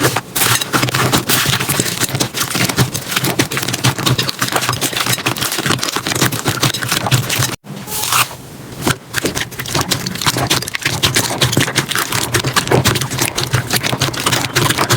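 Slime being squeezed and pressed by hand, giving a dense run of irregular crackling clicks and squelches. It breaks off abruptly about halfway, and a second clip of the same kind follows.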